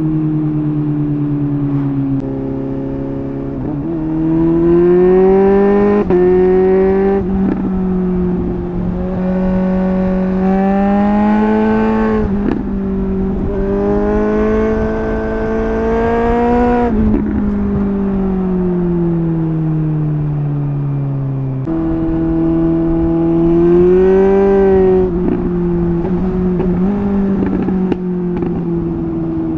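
Suzuki GSR 750 inline-four through a MIVV double gun exhaust, accelerating hard through the gears. The pitch climbs for several seconds and drops sharply at each upshift, about five times, and once falls away steadily as the throttle is eased off.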